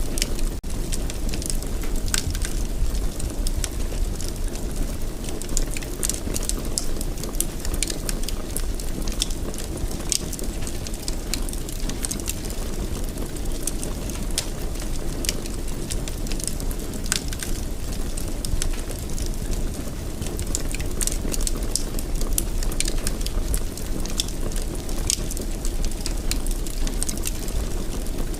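Wood fire in a fireplace crackling, with frequent irregular sharp pops over a steady low rush of burning.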